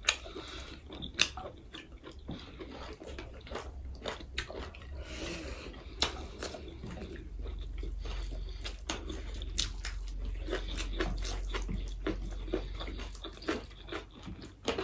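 Close-up eating sounds: chewing, wet mouth smacks and clicks of people eating rice, dal and chicken, with a low steady hum underneath.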